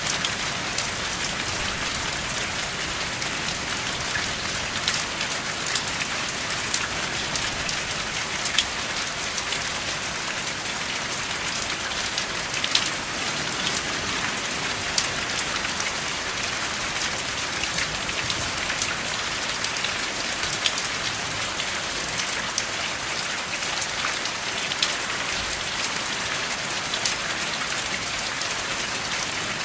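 Steady rain with no thunder: an even hiss of falling rain, with many sharp ticks of single drops striking a surface scattered throughout.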